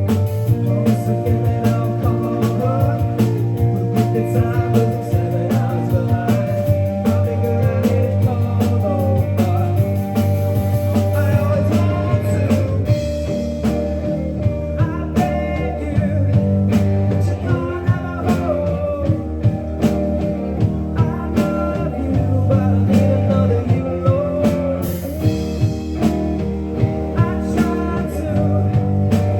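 Live rock band playing: electric guitars, bass guitar and a drum kit, with a lead voice singing over them.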